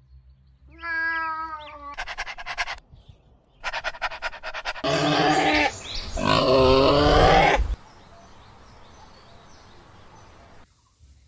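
A domestic cat meows once, its pitch dropping at the end. Then a pig grunts in quick pulsing runs and squeals loudly for about three seconds.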